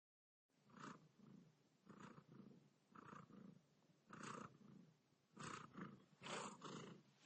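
Domestic cat purring close up as it washes its face, the purr swelling in pulses about once a second, with licking sounds mixed in.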